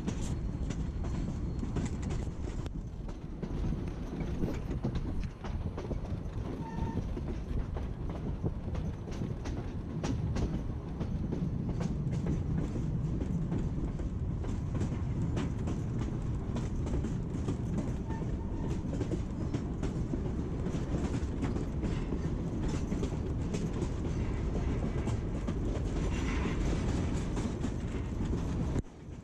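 Narrow-gauge passenger train rolling along the track: a steady low rumble from the cars, with frequent clicks of the wheels over rail joints.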